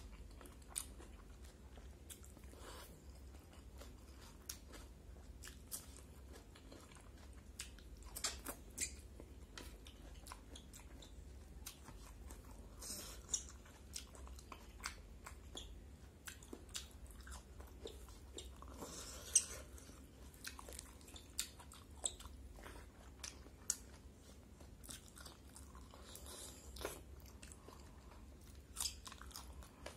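A person chewing and biting rice and vegetables eaten by hand, close to the microphone, with irregular short crunches and mouth clicks; the loudest crunch comes about two-thirds of the way through.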